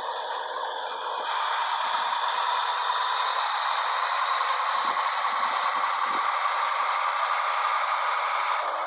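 Scania 112HT 360 truck's diesel engine heard from the cab while driving, with cab rattles over a steady noise. A faint whine rises slowly from about a second in as the truck gathers speed.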